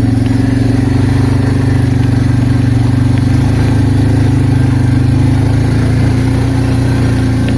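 Arctic Cat 366 ATV's single-cylinder four-stroke engine running steadily while the quad is ridden, its pitch easing down slightly near the end.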